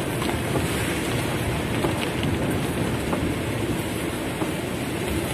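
Heavy rain drumming steadily on a car's roof and windows, heard from inside the cabin as a dense, even patter with a deep low rumble.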